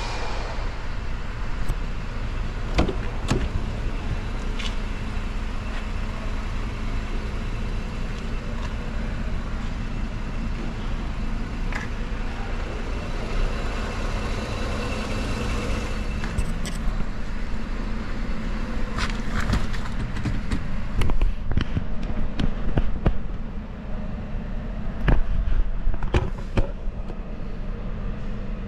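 Steady low hum of a 2011 Mercedes-Benz E300's 3.0-litre V6 idling, with scattered clicks and knocks of handling the car, thickest about twenty seconds in.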